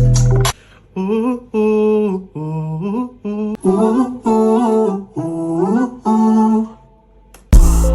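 A hummed melody of about nine short notes with small slides between them, after the drum beat cuts out. Near the end a loud hit brings the beat back in.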